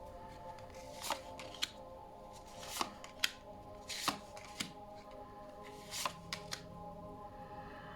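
Oracle cards being handled and drawn from the deck: a series of soft, irregular rustles and flicks. Quiet background music with steady held tones plays underneath.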